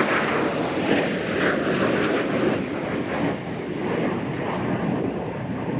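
Fixed-wing aircraft engine noise, a loud, steady rush that eases slightly in the second half.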